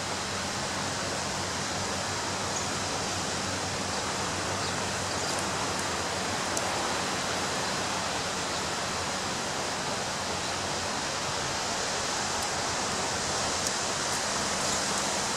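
Ocean surf washing steadily on a beach, a dense even rush of water that swells a little in the second half.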